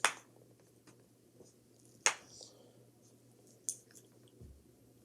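A few sharp, isolated clicks, one at the start, one about two seconds in and a softer one later, with a short low thump near the end, over a faint steady hum.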